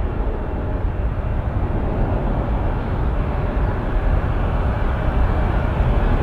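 Jet engines of an Airbus A320-200 running with a steady, deep rumble.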